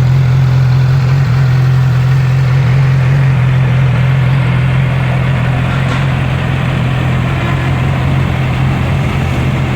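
2009 Yamaha R6's inline-four engine idling steadily, with no revving.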